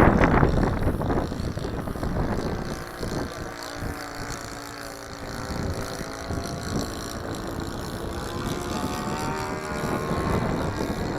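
Light propeller airplane (a Cessna) flying in to land, its piston engine and propeller giving a steady drone. Wind buffets the microphone at the start.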